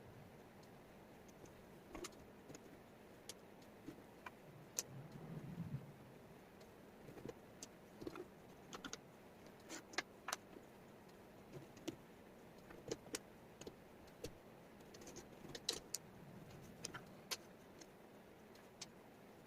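Small wooden jigsaw puzzle pieces clicking and tapping as they are handled and set down on a table. The sharp clicks come at an uneven pace, with a soft brief shuffle about five seconds in.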